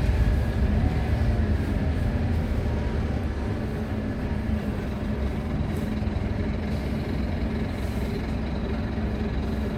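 Wright Solar Rural single-deck bus on a Scania chassis, heard from inside the cabin: steady engine drone with road rumble as it runs.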